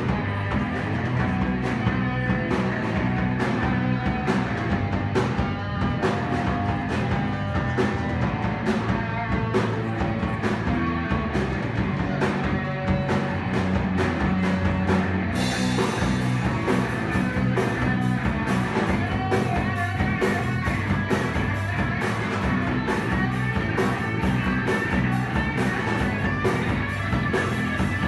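Rock band playing live without vocals: electric guitar over a drum kit keeping a steady beat. About halfway through, the cymbals come in brighter and keep going.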